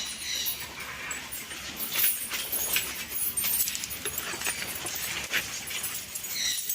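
Many birds calling at once: short, sharp, high calls overlapping and repeating irregularly.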